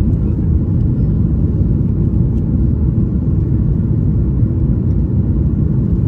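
Airliner during takeoff, its engines and airflow heard as a steady, loud low rumble.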